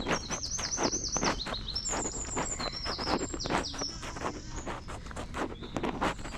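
A songbird singing a run of quick, high, looping notes that turns into varied twittering phrases and stops before the end. Under it are the steady footsteps of someone walking.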